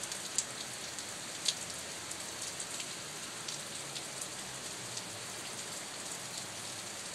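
Steady rain pouring down, an even hiss with sharp drop impacts ticking through it, one louder tick about a second and a half in.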